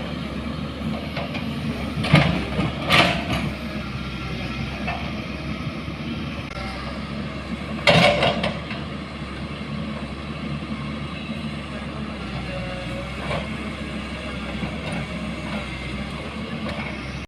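Vehicle engine running steadily with a low hum, with louder clatter about two, three and eight seconds in.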